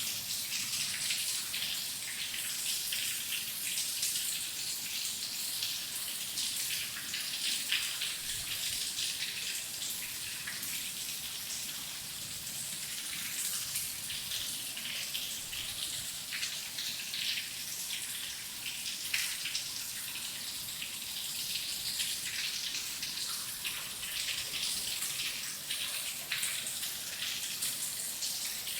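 Steady rain: a dense, even hiss with many individual drops striking close by.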